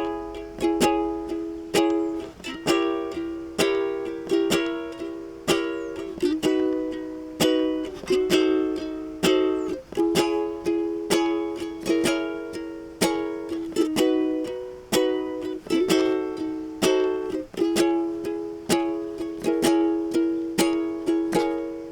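Solo ukulele strummed in a steady rhythm of about two strums a second, each chord ringing and fading before the next, working through a run of changing chords.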